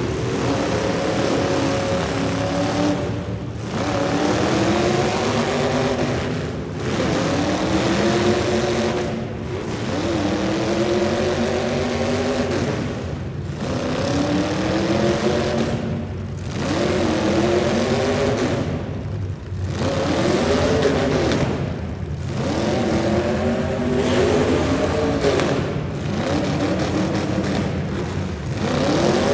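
Demolition derby car engines revving hard and letting off over and over, the pitch rising and falling roughly every three seconds.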